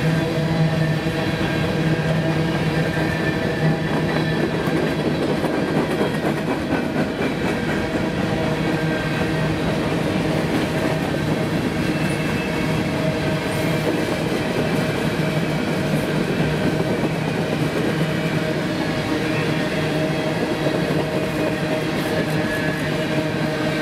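Freight train cars (covered hoppers, then tank cars) rolling steadily past at track side, their steel wheels running on the rails with a continuous, even noise and a few steady tones underneath.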